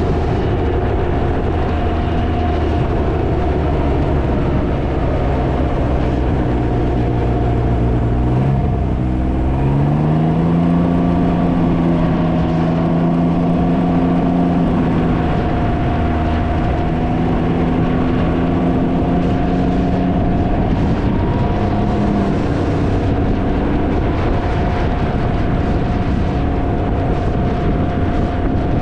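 Can-Am Ryker three-wheeled motorcycle's engine running at road speed under heavy wind buffeting on the microphone. The engine pitch steps up about ten seconds in, and the low wind rumble eases after that.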